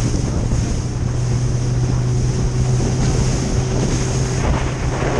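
A small boat's motor running steadily under way, a low even hum, with wind buffeting the microphone and water rushing past the hull.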